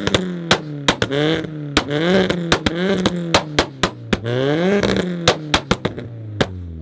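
Modified car engine revved hard again and again on a two-step launch limiter, its pitch climbing and dropping about once a second, with a stream of sharp exhaust pops and bangs that comes thicker near the end.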